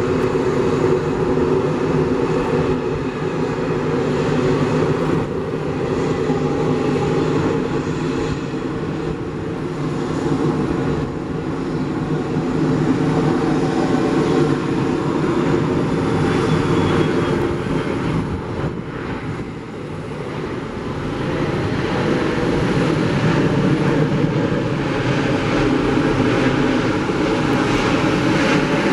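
Airliner engines running in a loud, steady rumble, mostly low in pitch. The rumble eases for a moment about two-thirds of the way through, then builds back up.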